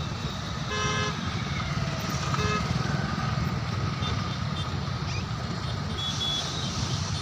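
Steady low rumble of highway traffic with a vehicle horn sounding briefly about a second in and again, shorter, at about two and a half seconds.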